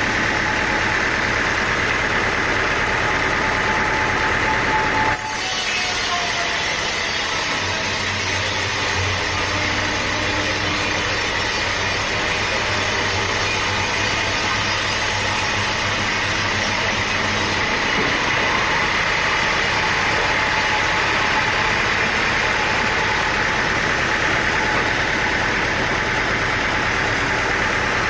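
A sawmill's engine running steadily. Its sound changes abruptly about five seconds in, with an added high hiss that stops abruptly again after about twelve seconds.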